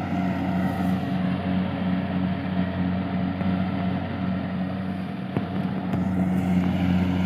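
A small engine running steadily at constant speed, as on rice-harvesting machinery.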